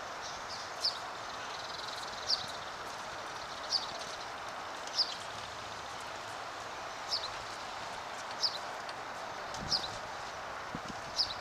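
A bird repeating a short, high, falling chirp about every second and a half, over steady outdoor background noise.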